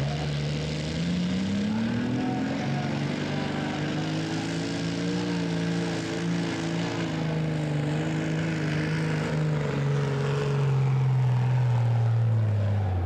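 Tractor engine revving up, holding high revs steadily, then dropping back near the end.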